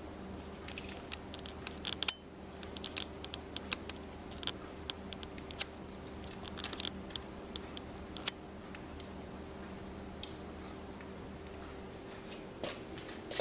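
Conure preening close to the microphone: a scatter of small, sharp beak clicks and feather crackles, with one sharper snap about two seconds in, over a steady low room hum.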